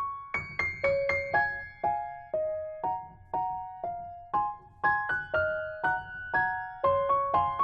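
Background music: a simple, gentle melody of single piano or electric-piano notes, a few notes a second, each struck and fading.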